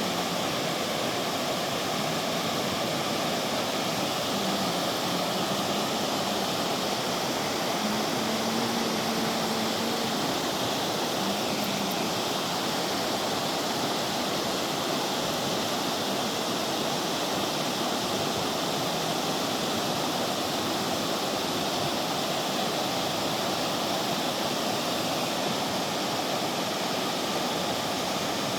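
River water rushing steadily over its bed, an even, continuous wash of sound. A faint low hum comes and goes a few times in the first half.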